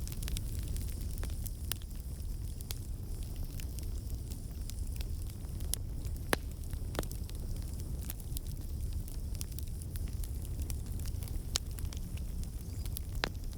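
Campfire burning: a steady low rumble of flames with scattered sharp crackles and pops, one louder pop about halfway through.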